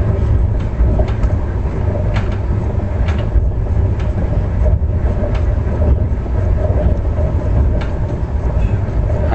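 Passenger train running at speed: a steady low rumble with sharp, irregular clicks and knocks from the wheels and coach.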